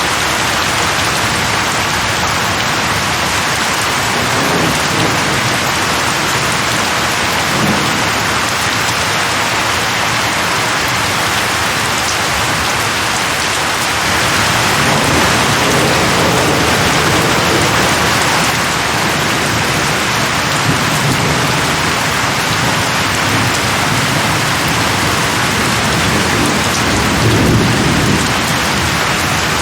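Steady, dense rainfall hissing evenly, with low rolls of thunder swelling under it several times, the longest about halfway through and another near the end.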